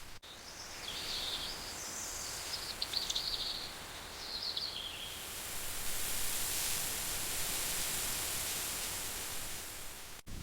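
Small birds chirping in quick, high trills over a steady outdoor hiss; the chirps stop about halfway and the hiss grows a little louder.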